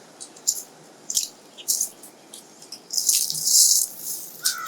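Dry, wiry shrub stems being cut and handled: a run of sharp, crisp snips and crackles about every half second, then a louder rustle of dry brush about three seconds in.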